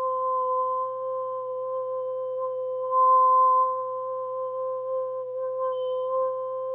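A woman's voice toning one long, steady hummed note at an unchanging pitch, with a brief swell about halfway through.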